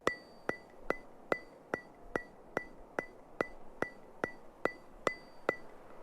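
A steady ticking: fourteen evenly spaced sharp clicks, about two and a half a second, each with a brief high ring, stopping shortly before the end.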